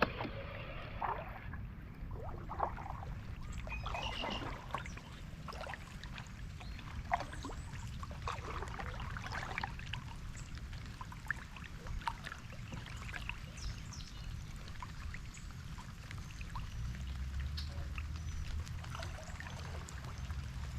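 Water splashing and trickling around a kayak as it is paddled, with many small drips and splashes. A low rumble grows louder near the end.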